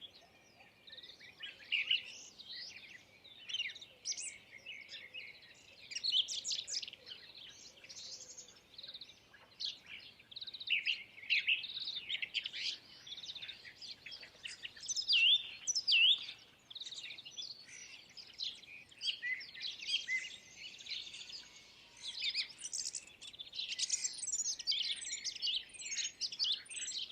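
Several songbirds chirping and singing at once, a dense chorus of short, quick, high chirps and whistled notes that overlap and come in uneven bursts.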